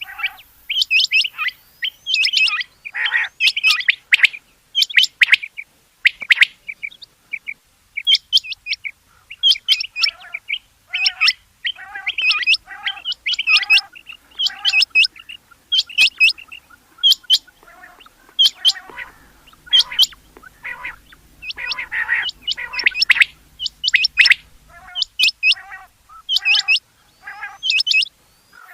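Rain quail calling: runs of short, sharp, repeated notes with brief pauses between them.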